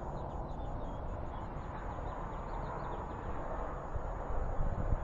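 Small birds chirping faintly and repeatedly, short high downward notes, over a steady outdoor background noise, with a few soft thumps near the end.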